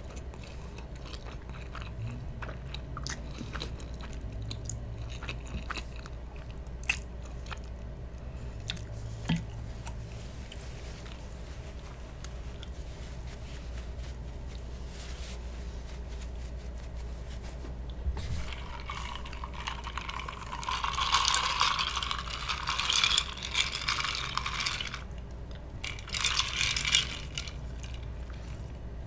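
A person chewing spaghetti and meatballs close to a microphone, with wet mouth sounds and scattered small clicks. About two-thirds of the way through come a few seconds of louder hissing noise, and then a shorter burst just before the end.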